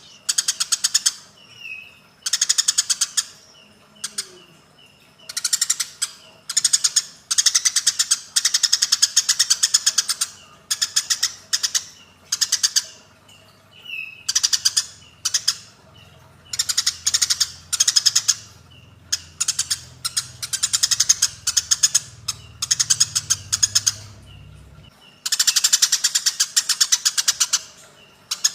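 Eurasian tree sparrows in a fight, chirping rapidly and harshly in bursts of a second or two, again and again with short pauses between.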